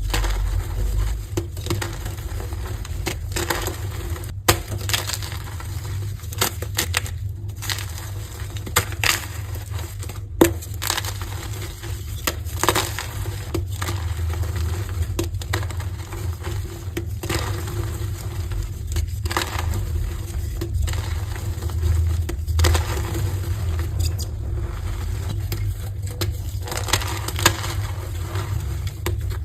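Heart-shaped blocks of dyed gym chalk being crushed and crumbled, a continuous run of crunches with a couple of sharper snaps about four and ten seconds in.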